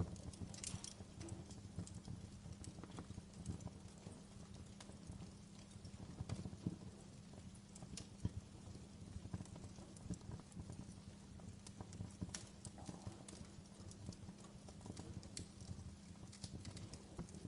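Wood fire burning in a fireplace, with irregular sharp crackles and pops over a low, steady rumble of the flames.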